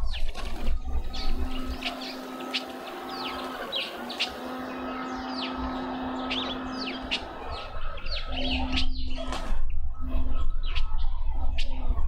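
Garden songbirds chirping: many short, high, down-slurred chirps repeated irregularly, over a steady low hum that breaks off now and then.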